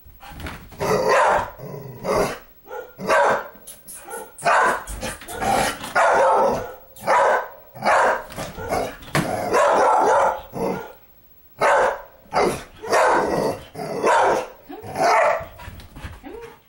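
A dog barking over and over at a doll it is frightened of, about one bark a second, with a short break a little past the middle.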